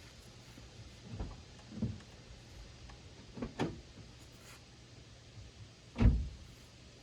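A few short, dull knocks and thumps over a faint steady hum; the loudest comes about six seconds in.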